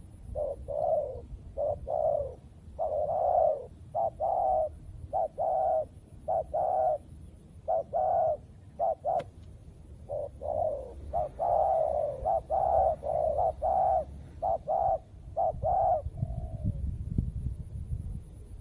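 Spotted doves cooing in runs of short, repeated coos: one run over the first eight seconds or so, a pause, then a second run from about ten to sixteen seconds.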